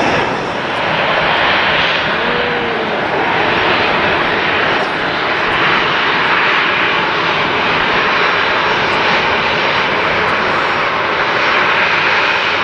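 Airliner engines, a loud steady rush of noise.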